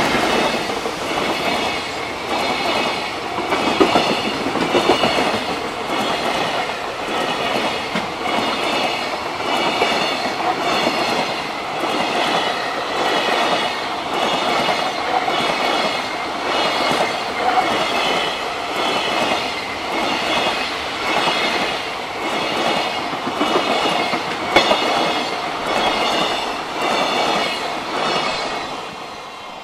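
Freight train of container flat wagons passing close by: steady rolling rumble with wheel clatter over the rail joints. A level-crossing warning bell rings evenly over it. The noise falls away as the last wagon passes near the end.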